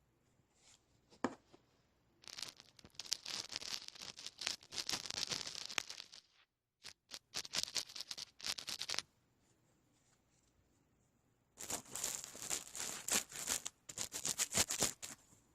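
Close-miked scratchy, crackling rustle in three bursts of a few seconds each, separated by short quiet gaps: an object being rubbed or squeezed right at the microphone.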